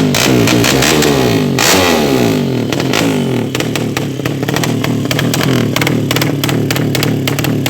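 A 200cc drag-bike engine being revved in repeated throttle blips, its pitch rising and falling several times, with sharp clicks running through the sound.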